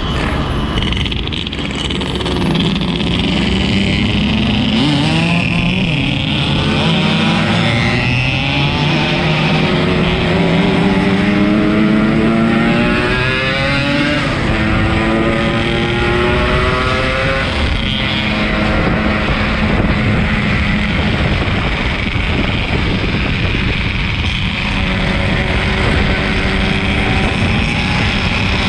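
Yamaha RX-King two-stroke single-cylinder motorcycle engine running under way, its note climbing and dropping back several times as it revs up through the gears, over a steady rush of wind and road noise.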